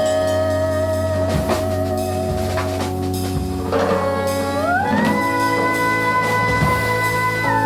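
Small jazz band playing: a long held melody note with slight vibrato slides up to a higher held note about five seconds in, over double bass and light drum kit strokes.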